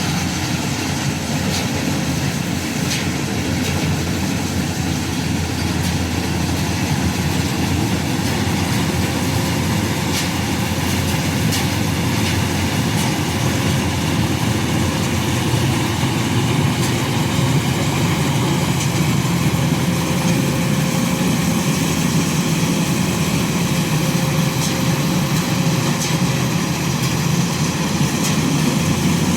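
Rice combine harvester running steadily, a low, even engine drone that grows slightly louder in the second half.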